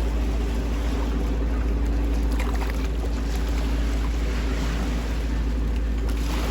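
Wind rumbling on the microphone over a steady low mechanical hum.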